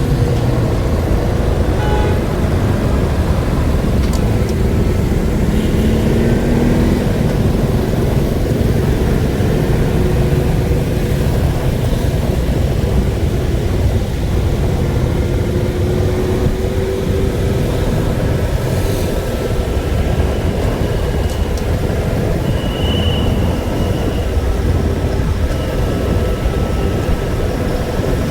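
Steady vehicle rumble with road noise, running evenly throughout.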